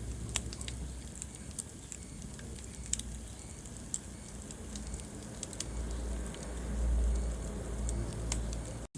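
Wood fire crackling in a fireplace: irregular sharp pops and snaps over a low rumble of burning, which swells about seven seconds in. The sound cuts out for an instant just before the end.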